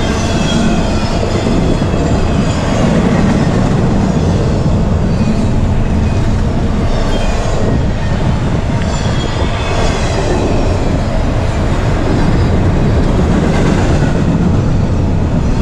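Intermodal freight train rolling past: a loud, steady rumble of double-stack container cars and trailer flatcars on the rails, with faint high-pitched wheel squeals now and then.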